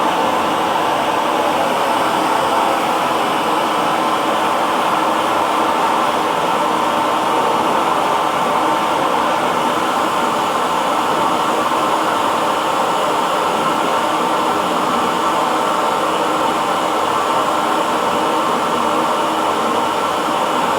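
Hair dryer running steadily: a constant airflow rush with a faint motor hum, unchanging throughout.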